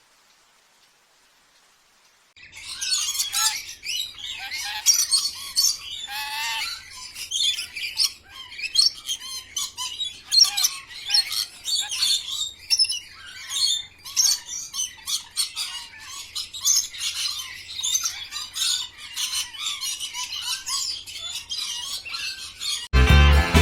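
Many birds chirping and squawking at once in a dense, busy chorus that starts abruptly about two seconds in, after near silence. Music cuts in just before the end.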